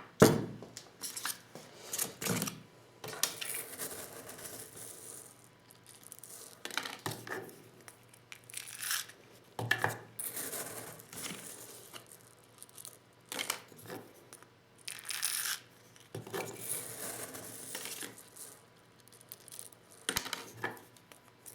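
Hand-reloading 12-gauge shotgun shells with a Lee Loader: metal and plastic parts clicking and clinking, with stretches of rustling, in uneven bursts.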